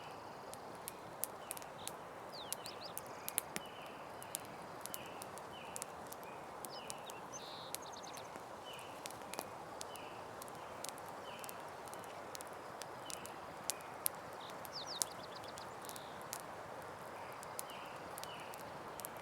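Campfire burning with a steady hiss and frequent irregular crackles and pops. Behind it, short chirps repeat about twice a second, with a few higher calls now and then.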